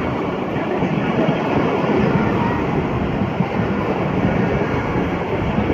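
Pakistan Railways passenger coaches rolling past close by: a steady rumble and rush of steel wheels on the rails as the train picks up speed.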